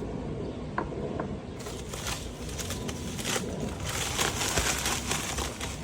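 Packaging wrap crinkling and rustling as miniature park pieces are unwrapped by hand, after a couple of small clicks in the first second or so.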